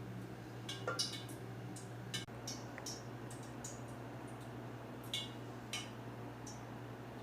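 Light clinks and taps of utensils against dishes, a few scattered strikes over a steady low hum.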